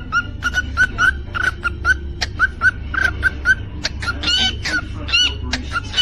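Cockatiel calling: a quick run of short, repeated chirps, about three a second, with whistled notes that rise and fall joining in from about four seconds in.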